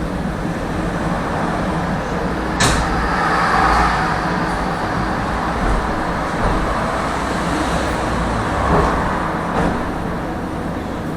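Tram running along its rails: a steady rumble of wheels and motors, with one sharp clank about two and a half seconds in.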